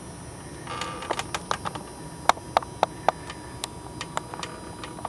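A string of sharp, irregular clicks and taps, about two or three a second, a few louder ones near the middle, over a faint steady tone.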